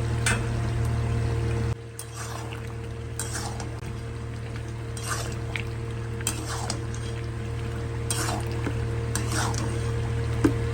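Metal spatula scraping and stirring chicken curry in a kadai, a stroke about every second or so, over a steady low hum.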